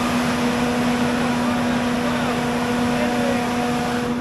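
Large building generator running loudly and steadily: a dense, even noise with a strong constant hum underneath.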